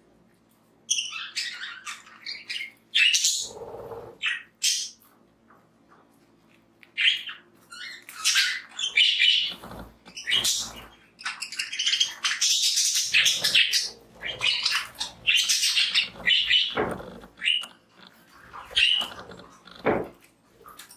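A flock of budgies chattering in many short, high chirps and calls, with a lull partway through.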